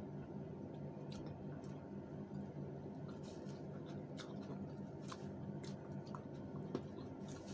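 Close-up chewing and mouth sounds of people eating with their hands: soft wet smacks and scattered small clicks, with one sharper click near the end, over a steady low hum.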